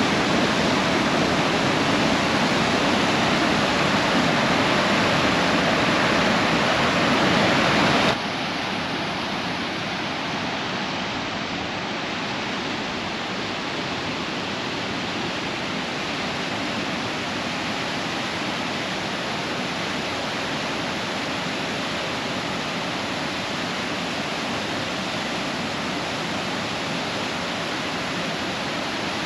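Grand Falls waterfall rushing in a steady roar of falling water. About eight seconds in it drops suddenly to a quieter, thinner rush.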